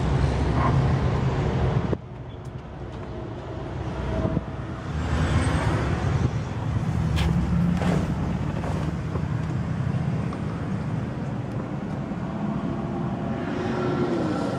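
2007 Mitsubishi Galant GTS's 3.8-litre V6 engine running steadily. The level drops abruptly about two seconds in.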